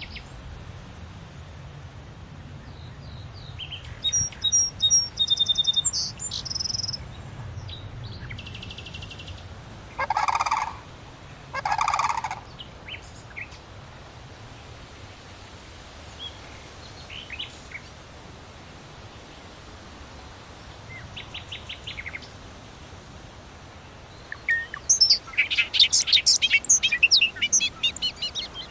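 Bald eagles calling: high whistled chirps, two louder harsh calls about ten and twelve seconds in, then a long run of rapid, high chattering notes near the end.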